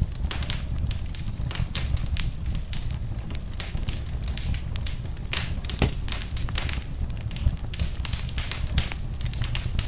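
Wood fire in a fireplace crackling, with frequent irregular sharp pops and snaps over a steady low rush of flame.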